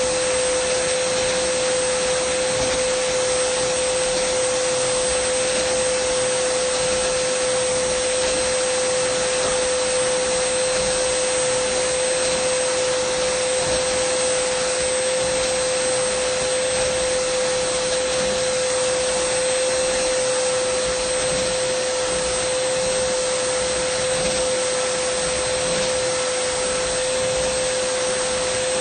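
Dyson vacuum cleaner running steadily: a constant whine over an even rush of air, with no change in speed.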